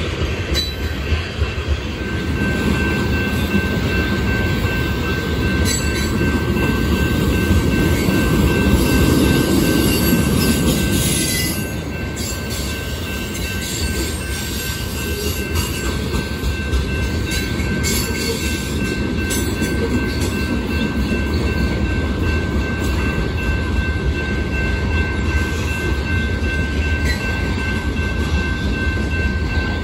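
Freight train of covered hoppers and tank cars rolling past at steady speed: a low rumble of steel wheels on rail with occasional sharp clanks, and a thin steady squeal from the wheels.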